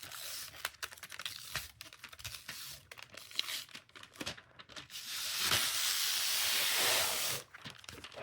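Crinkling and small clicks of plastic rhinestone transfer tape and its paper backing being handled, then a steady tearing hiss for about two seconds as the sticky tape is peeled from its backing.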